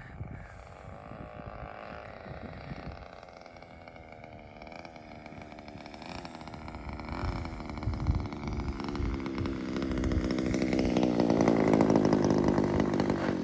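Small 20cc gasoline engine of an RC P-51 model plane running in flight, faint at first and growing louder from about eight seconds in as the plane comes nearer, with wind buffeting the microphone.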